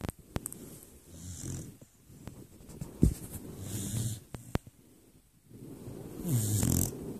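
A beagle snoring in its sleep: three snores about two and a half seconds apart, each a low rumble with breathy hiss, the last one the loudest. A few sharp clicks fall between them, one loud click about three seconds in.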